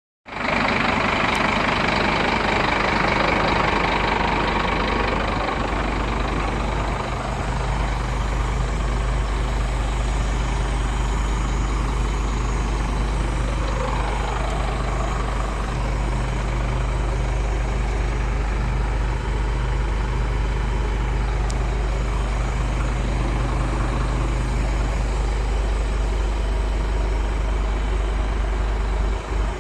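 Scania P230 truck's diesel engine running steadily with a constant low note, with extra higher-pitched mechanical noise in the first few seconds.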